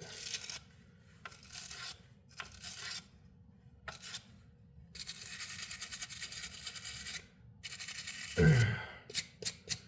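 Grime being scraped out of the inside of a disassembled angle grinder, clogged with tile dust: several short rasping scrapes, then one longer stretch of scraping about five seconds in. A brief breath or sigh near the end.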